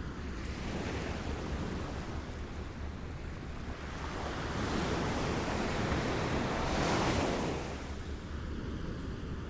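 Small waves lapping at the shore, with one wave swelling in about four seconds in and washing up loudest about seven seconds in, then falling back. Under it runs a steady low rumble.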